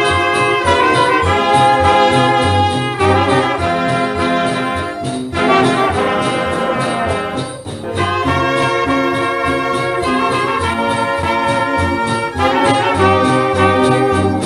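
Instrumental break of a Thai luk thung song: a brass section with trumpets and trombone playing the melody over a steady bass beat.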